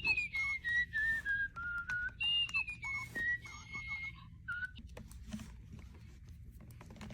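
Parrot whistling: two long notes that slide downward in pitch, then a few short notes, with small clicks in between.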